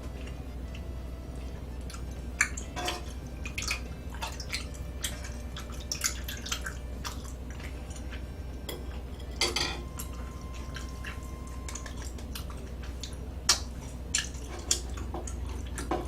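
Eating sounds: scattered wet clicks and light clinks of utensils against dishes, with some chewing, over a steady low hum.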